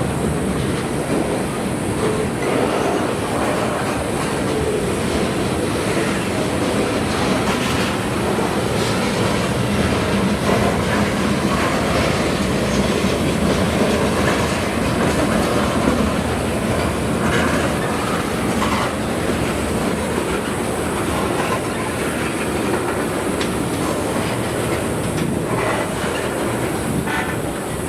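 CSX freight train cars rolling past steadily, with steel wheels clicking and clattering over the rail joints.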